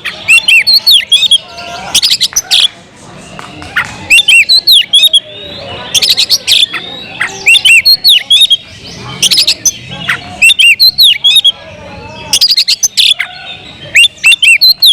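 Oriental magpie-robin (kacer) singing loudly in repeated bursts of rising-and-falling whistled notes mixed with rapid chattering, a new phrase every second or two.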